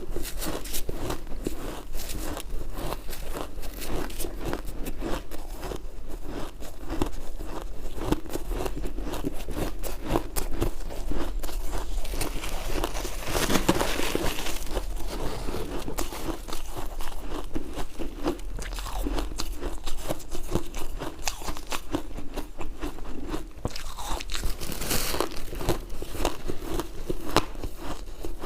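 Ice with syrup being bitten and chewed: a steady, dense run of crunching, with a louder, rougher stretch about halfway through.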